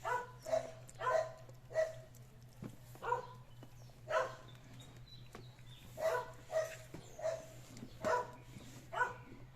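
A dog barking in short, high-pitched yaps, about a dozen spread unevenly, over a faint steady hum.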